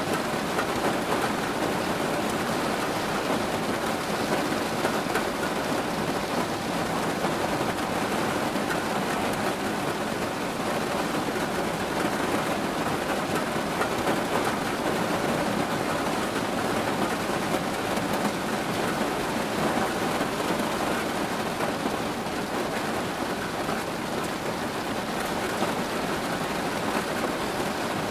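Steady rain falling, an even, unbroken hiss of drops on a surface with no single louder event.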